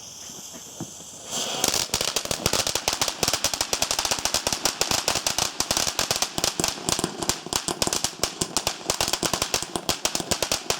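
Garden firework going off in a rapid, very noisy string of sharp crackling bangs, many a second. It starts with a hiss about a second in and cuts off near the end.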